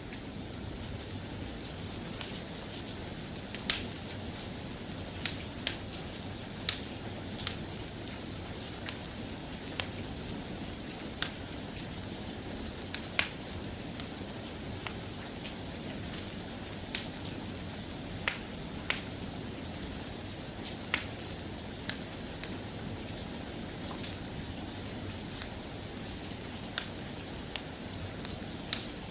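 Steady soft rain, an even hiss, with sharp ticks and pops scattered irregularly throughout.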